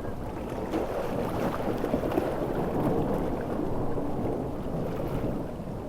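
Ocean surf with heavy rain: a steady low rush of water that swells through the middle and eases toward the end.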